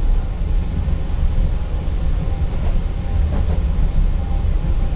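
ŁKA 36WED electric multiple unit running along the line, heard inside the passenger car as a steady low rumble with a faint hum.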